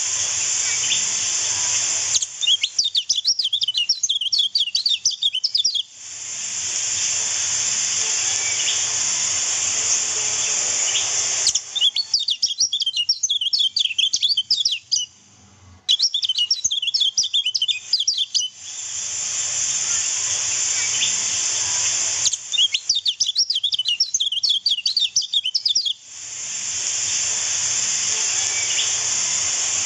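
Kecial kuning (a white-eye) twittering in fast runs of high chirps, a few seconds at a time, alternating with a steady hiss of running water.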